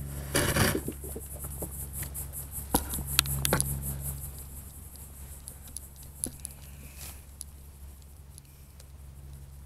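A few short splashes and knocks around the sit-on-top kayak in the first few seconds. The loudest comes right at the start, then two more follow about three seconds in. Insects trill in a fast, steady pulse beneath, fading out about seven seconds in.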